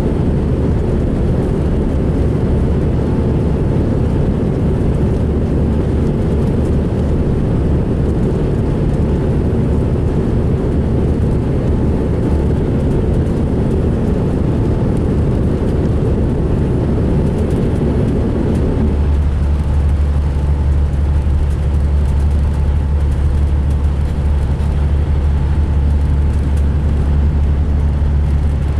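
2005 MCI D4500 coach's diesel engine running while under way, then about 19 seconds in the road noise falls away and the engine settles to a steady low idle. Its running and idling are rough, by the uploader's account.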